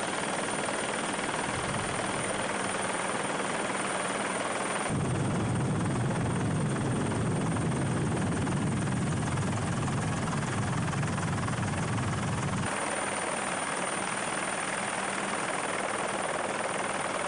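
Helicopter running steadily with a constant drone. About five seconds in the sound switches abruptly to a deeper, louder rumble, and it switches back at about thirteen seconds.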